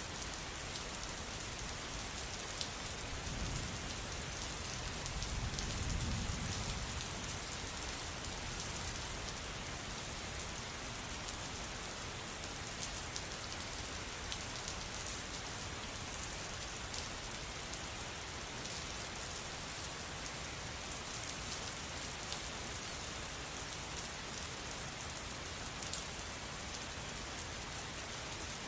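Steady rain falling, an even hiss with many small drop ticks. A low rumble swells briefly about three to six seconds in.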